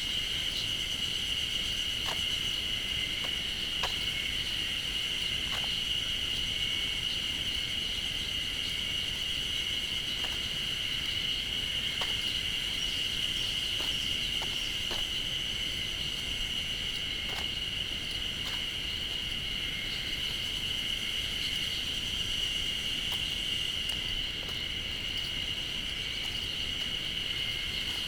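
A dense, continuous chorus of insects, which the walker takes for cicadas, making a noisy high drone that holds steady throughout.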